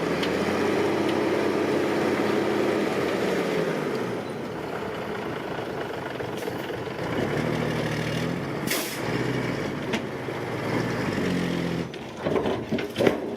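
Heavy-equipment diesel engine revving up and easing off twice, with a short hiss about nine seconds in and a few knocks near the end.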